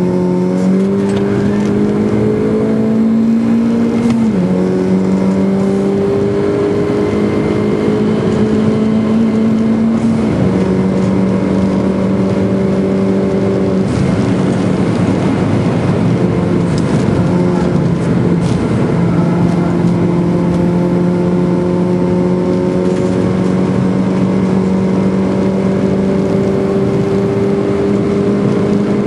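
Schäfer-tuned Mini Clubsport's engine heard from inside the cabin under hard acceleration, its pitch climbing slowly and dropping suddenly at gear changes about four and ten seconds in. It wavers for a few seconds in the middle, then pulls steadily higher again over road and wind noise.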